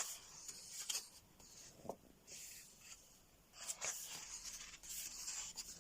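Soft rustling and swishing of thick colouring-book paper as pages are handled and turned, coming in two spells, with a couple of faint light taps.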